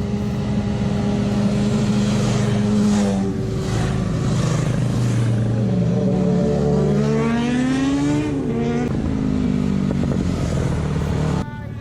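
Motorcycle engines running and revving, the pitch holding steady, then rising and falling through the middle; the sound drops off suddenly just before the end.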